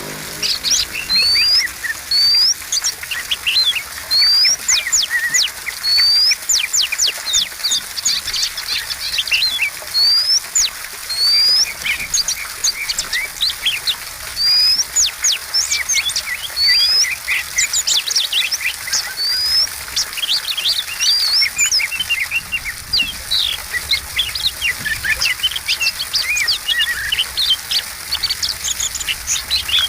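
Oriental magpie-robin singing continuously. Its varied song repeats a rising whistled note about once a second, mixed with rapid sharp chirps and trills.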